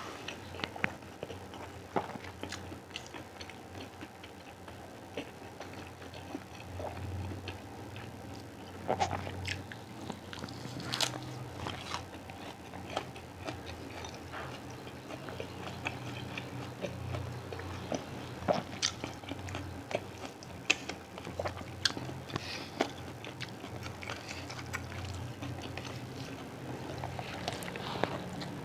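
A person chewing and biting food close to the microphone, with irregular sharp mouth clicks throughout.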